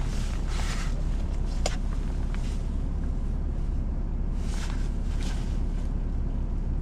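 Steady low rumble of an idling vehicle engine, with a few faint clicks and rustles over it.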